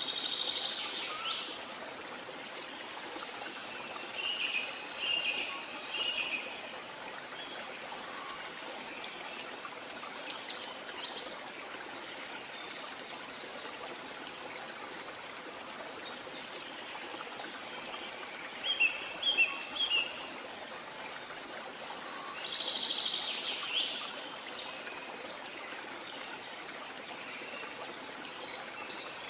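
Songbirds chirping and calling in short bursts every few seconds, the sharpest group of notes about two-thirds of the way in, over a steady rushing background like running water.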